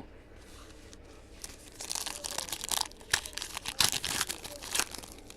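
A foil trading-card pack wrapper crinkling and tearing open, with a few sharp crackles, from about a second and a half in until near the end.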